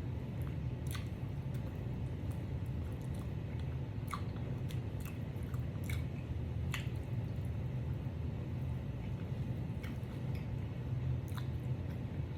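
Close-miked chewing of fried chicken, with scattered wet mouth clicks and smacks, over a low steady hum.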